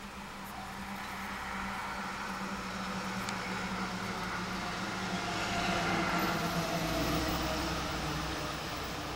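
A motor vehicle passing by, its sound swelling to a peak about six seconds in and then fading, dropping slightly in pitch as it goes past.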